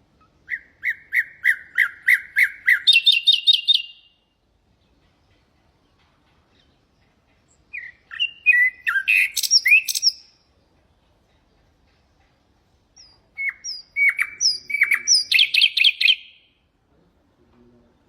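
Nightingale singing three separate song phrases with pauses of a few seconds between them. The first and last phrases are runs of repeated notes that climb into a faster, higher trill; the middle phrase is a jumble of varied whistled notes.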